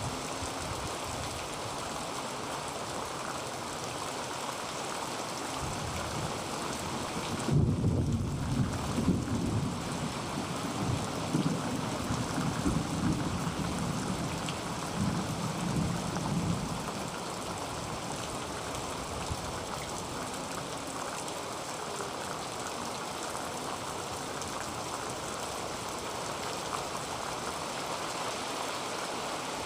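Heavy rain falling steadily on a tin roof. About a quarter of the way in, a roll of thunder breaks in suddenly and rumbles on for roughly ten seconds before fading back into the rain.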